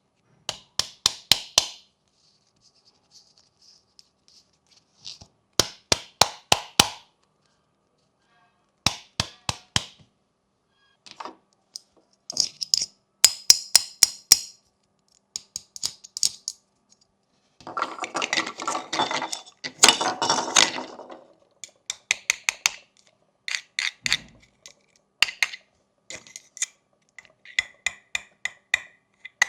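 Fidget toys on a fidget board being clicked and snapped by hand: quick bursts of four to six sharp clicks with short silences between them, and a longer rattling stretch about two-thirds of the way in.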